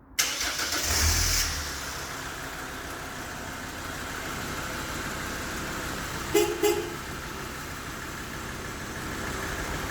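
SsangYong Rodius engine started by its remote-start alarm: it catches with a brief rise about a second in, then settles to a steady idle. About six and a half seconds in, two short horn beeps sound close together.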